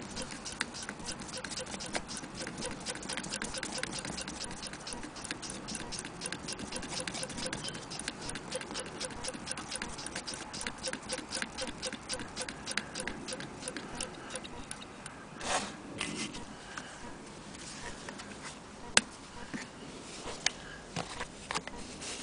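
Antique Willcox & Gibbs sewing machine running, its mechanism making a fast, even clicking for most of the stretch. It then stops, giving way to a rustle, scattered clicks and one sharp knock.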